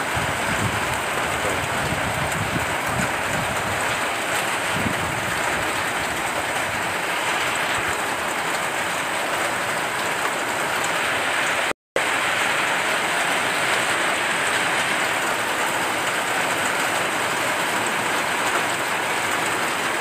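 Heavy rain falling steadily, a continuous even hiss. It cuts out briefly about twelve seconds in.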